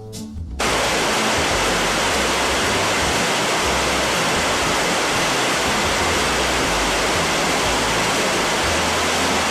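Steady static hiss, an even rush of white noise like a lost signal, starting abruptly about half a second in and holding unchanged.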